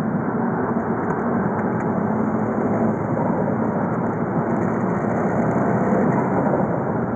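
VW Golf V 2.0 TDI (BKD) four-cylinder turbodiesel running at a steady, even pitch and level, with no revving or turbo flutter.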